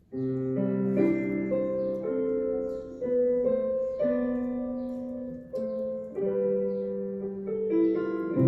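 Piano playing a slow song introduction of held chords, changing about once a second.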